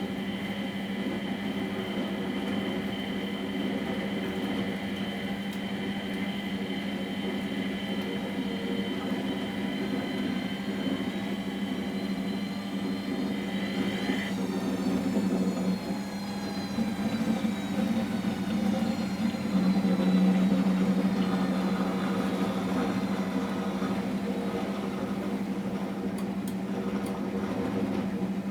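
Miele Professional WS 5426 commercial washing machine running a boil-wash cycle: a steady motor hum with a high whine that rises briefly and cuts off about halfway through.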